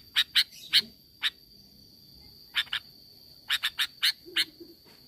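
Sooty-headed bulbul giving short, sharp call notes in quick clusters of two to four, with a pause of about a second between clusters, over a faint steady high whine.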